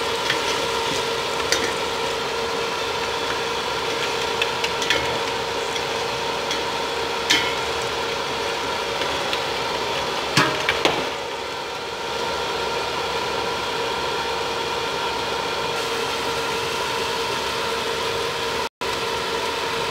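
Mutton pieces and green chillies frying in a steel pot: a steady sizzle over a constant hum, with a few sharp clicks of the spatula against the pot in the first half.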